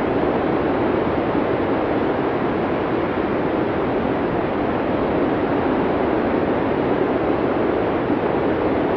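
Blizzard wind noise: a steady, even rush with no gusts, breaks or other events.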